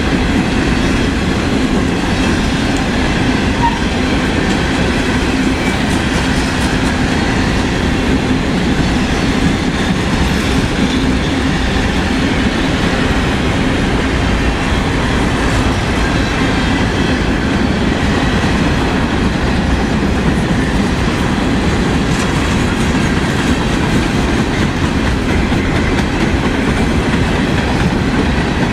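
A train rolling by at a steady speed: continuous rumble and rattle of railcar wheels on the rails, with no horn or change in level.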